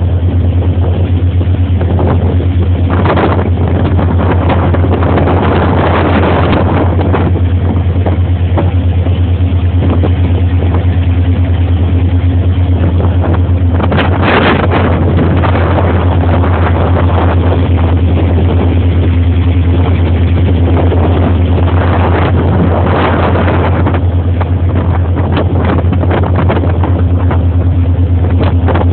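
Motorboat engine running steadily, a loud low drone with surges of rushing noise over it, the strongest about halfway through.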